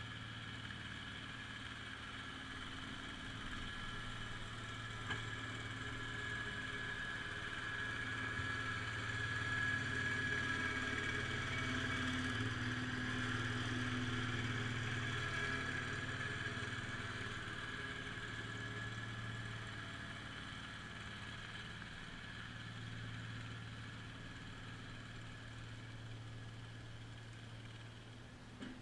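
IH Cub Cadet 147 garden tractor engine running steadily, with a high whine over it. It grows louder for several seconds in the middle, then eases back.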